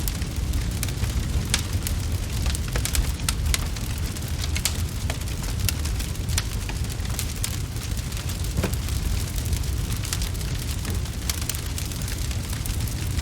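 Wood fire crackling: frequent irregular pops and snaps over a steady low rumble.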